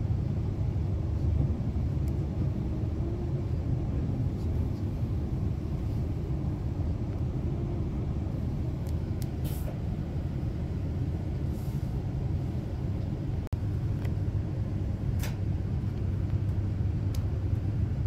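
Interior of an LNR Class 350 electric multiple-unit train: a steady low rumble as it stands at a station and then moves off. A few short hisses come about halfway through, and a single click follows a few seconds later.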